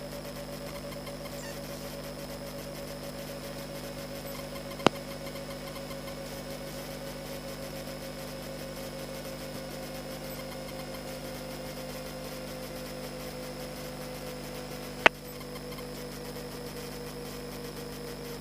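Europa light aircraft's engine droning steadily in the cockpit on the approach to land, its pitch sinking slowly as power eases. Two sharp single clicks cut through, about five seconds in and again near fifteen seconds.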